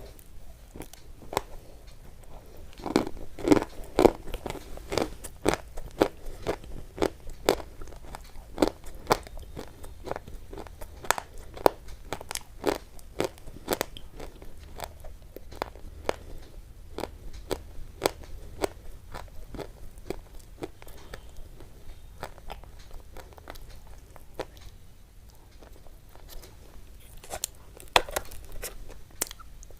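Close-miked crunching: sharp, crisp cracks come irregularly, one to three a second, thickest in the first few seconds and again in a brief cluster near the end.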